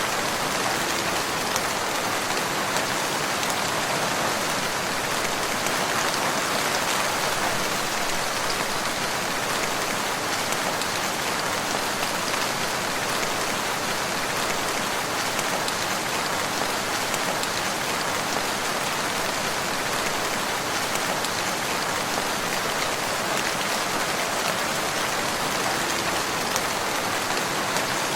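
Steady rainfall pattering on surfaces, an even continuous hiss of drops with no thunder.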